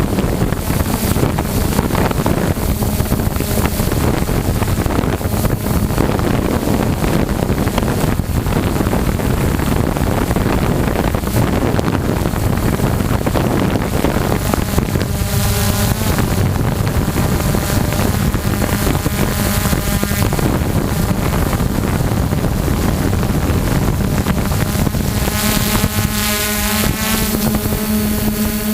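Drone's motors and propellers running steadily in flight, with wind buffeting the microphone. A steady hum sits under a higher whine that wavers in pitch from about halfway through.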